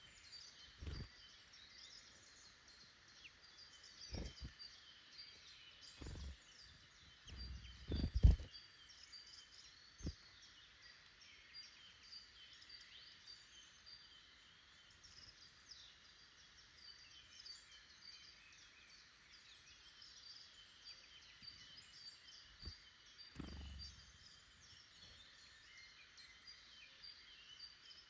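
Woodland birds calling and singing, many small high chirps and trills overlapping throughout. A few short low knocks break in now and then, the loudest about eight seconds in.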